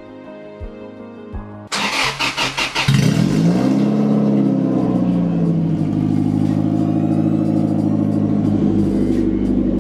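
Car engine cranked on the starter and catching about three seconds in; the revs rise, then it settles and runs steadily. Background music with a beat plays for the first couple of seconds before it.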